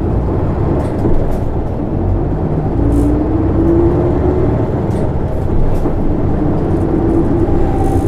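Isuzu Erga city bus (PKG-LV234N2) diesel engine pulling away from a stop, heard from inside the passenger cabin. Its note rises as the bus accelerates, about two seconds in and again near the end.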